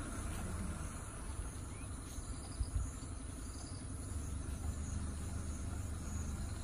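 Steady low rumble of an idling car engine, with insects chirping steadily in the roadside scrub.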